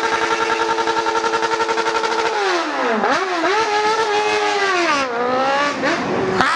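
Motorcycle engine at high revs, held steady for about two seconds, then falling and climbing in pitch as the throttle is cut and reopened, with another dip about five seconds in.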